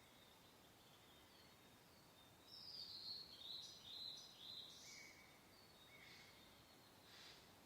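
Faint birdsong over a soft steady hiss of wind: a short burst of quick, high warbling song about two and a half seconds in, followed by a few single chirps.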